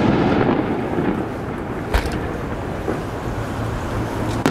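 Aerial firework shells bursting: a sharp bang about two seconds in and another at the end, each followed by a low rolling rumble.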